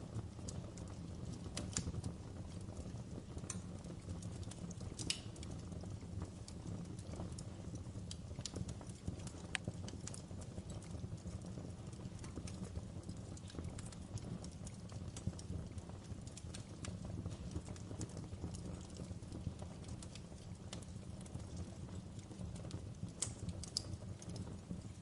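Wood fire burning in a fireplace, with a steady low rumble of flames and irregular crackles and sharp pops of the burning logs.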